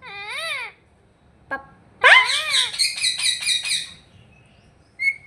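Pet parrot calling: a short call that rises and falls, a click, then a longer call that breaks into a fast rattling chatter of about six pulses a second, and a short whistle near the end.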